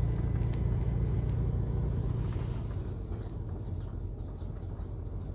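Steady low rumble of a semi truck's engine and road noise heard inside the cab while driving at highway speed, easing slightly about three seconds in.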